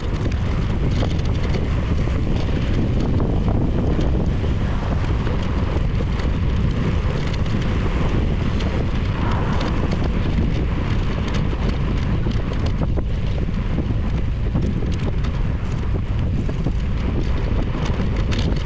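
Wind rushing over a bicycle-mounted action camera's microphone while riding, a steady low rumble of wind and road noise with many small clicks and rattles throughout.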